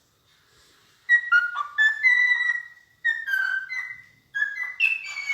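A songbird singing three phrases of clear whistled notes that step up and down in pitch, the first about a second in and the last near the end.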